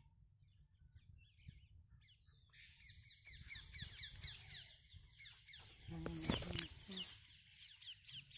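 Birds chirping outdoors: a fast, steady run of short, high, downward-sliding notes starts a couple of seconds in and carries on, with a few short low calls breaking in near the end.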